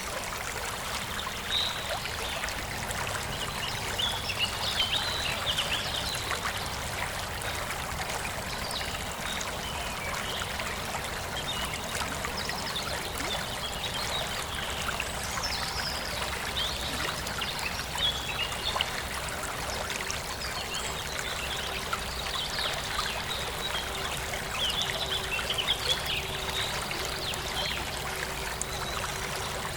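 A forest stream flowing and trickling steadily, with birds chirping in short bursts over it.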